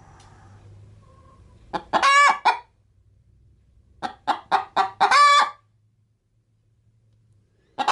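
Domestic hen cackling, made while she is getting ready to lay an egg: a few short clucks leading into a long drawn-out squawk, twice, with a third cackle starting at the very end.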